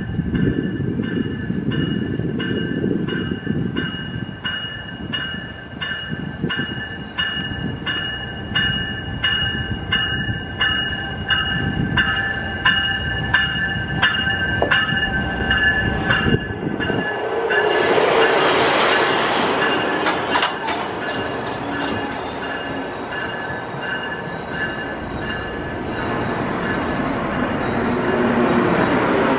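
Coaster train arriving at a station platform, its Siemens Charger diesel locomotive rumbling past with the bell ringing in an even, steady beat. From about 17 seconds in the bell gives way to a loud hiss and high, wavering squeals from the wheels and brakes as the train slows to a stop.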